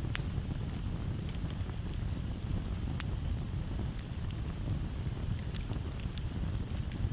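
Campfire crackling, with scattered sharp pops over a steady low rumble of breeze. Crickets keep up a steady high trill underneath.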